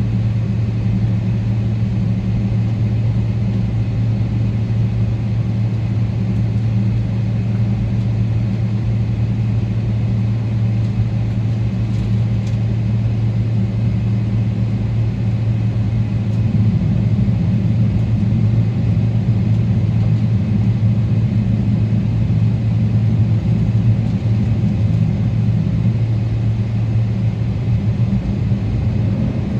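Cabin noise inside a Boeing 777-300ER: a steady low rumble with a deep hum from its GE90 engines and the airframe, growing a little louder about halfway through.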